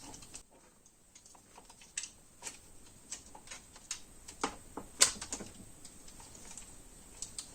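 Scattered light clicks and taps of hand tools working small metal retaining pieces off a Honda CB750 engine's cam chain tensioner, with a sharper click about five seconds in.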